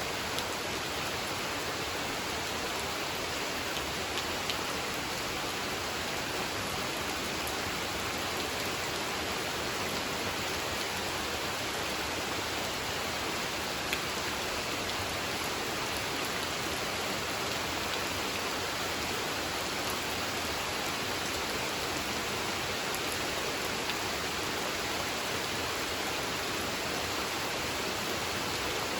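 Steady gentle rain: a dense, even patter with a few louder single drops now and then.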